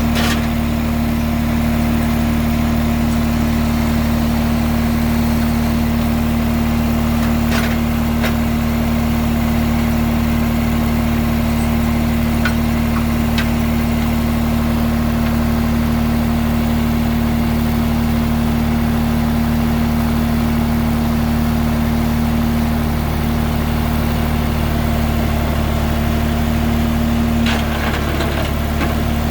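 A vehicle's engine idling steadily, with a few light clicks, its tone wavering briefly near the end.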